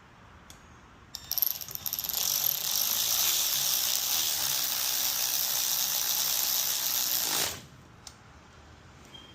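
A tool driving screws on a Stihl HT131 pole saw, running steadily for about six seconds. It starts about a second in and cuts off suddenly.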